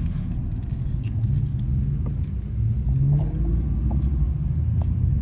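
Car engine running, getting louder from about three seconds in.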